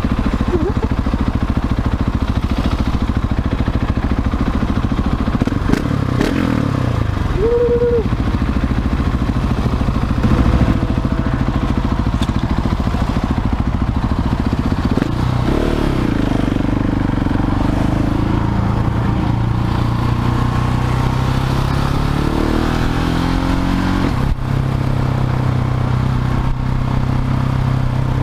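Husqvarna 701's single-cylinder engine with a Leo Vince slip-on exhaust under way, its note rising and falling several times as the rider works the throttle and gears, then running steadily near the end, over a constant rush of wind noise.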